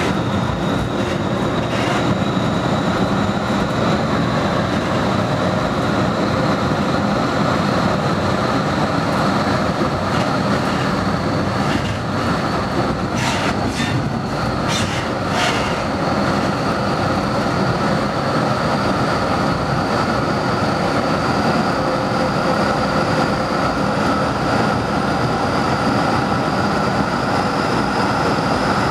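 Metra commuter train rolling steadily along the rails, heard from inside the car at the front window: a constant wheel-and-rail rumble with a faint high whine that slowly rises in pitch. Near the middle, a short run of about four clacks as the wheels pass over track joints at a turnout.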